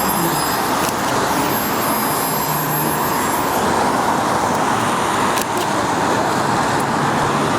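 Steady road traffic noise from passing motor vehicles, an even rushing sound without breaks.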